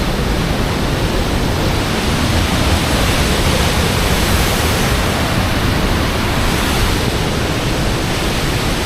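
Loud, steady rush of fast-flowing water, like a waterfall or torrent, with no breaks.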